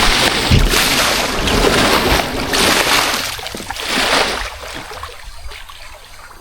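Water splashing and sloshing around a kayak in repeated bursts about once a second, with wind rumbling on the microphone, growing quieter over the last two seconds.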